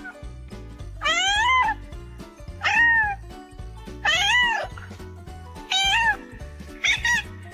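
A cat meowing five times, loud drawn-out meows that each rise then fall in pitch, over background music.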